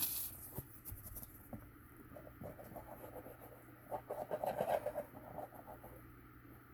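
Faint scratching and rubbing of cardstock being handled while glue is put on it, with small clicks throughout and a denser scratchy stretch about four seconds in.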